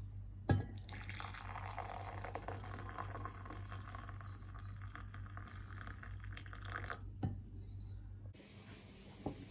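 Tea poured into a cup for about six seconds, between a knock about half a second in and another knock near the end.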